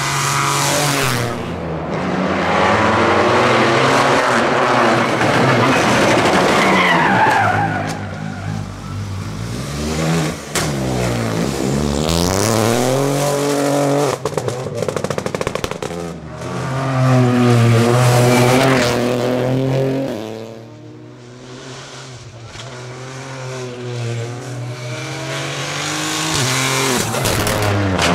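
Rally car engine revved hard under acceleration, its pitch repeatedly climbing and dropping back through gear changes. It falls quieter for a few seconds past the middle, then builds up again.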